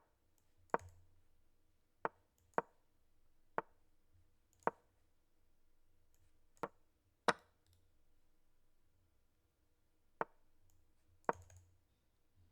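Clicks from a game of online chess being played: about ten sharp, short clicks at uneven intervals as moves are made.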